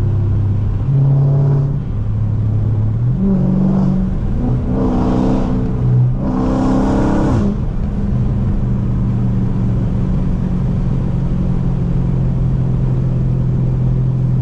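Dodge Charger Scat Pack's 392 HEMI V8 through catless midpipes and a race exhaust, accelerating in several pulls. The pitch climbs and drops between them, and the loudest, raspiest surge comes about six to seven seconds in. It then settles into a steady low cruising drone.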